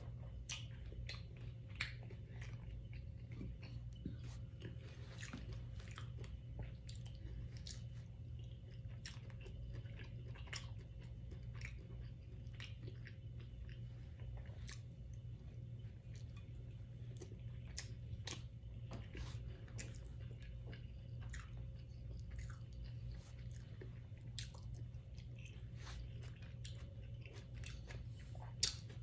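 Close-up eating sounds: chewing and small wet mouth clicks of someone eating pepper steak, potatoes and rice, scattered irregularly over a steady low hum. One sharper click stands out near the end, like chopsticks knocking the plate.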